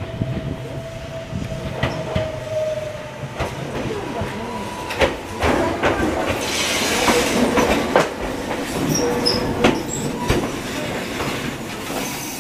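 A single-car electric train pulls into the station: a rolling rumble, with the wheels clicking over rail joints and points at irregular intervals. A rushing hiss swells about halfway through, and there is a faint squeal from the wheels.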